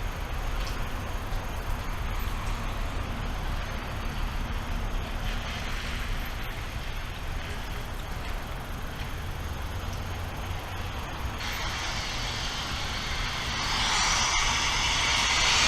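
Steady rain with a low rumble under it, the downpour getting louder and hissier in the last few seconds.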